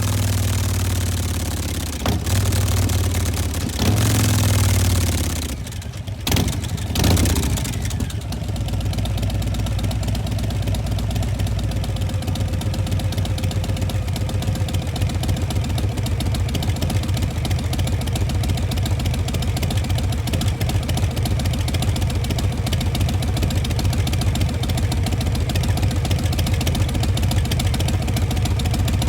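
2020 Harley-Davidson Fat Boy's Milwaukee-Eight 114 V-twin running through a Vance & Hines Big Radius exhaust. It is blipped a few times, then settles about eight seconds in to a steady, pulsing idle.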